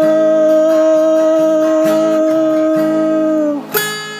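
Music: a singing voice holds one long, steady note over plucked acoustic guitar. The note ends about three and a half seconds in, and the guitar plays on alone.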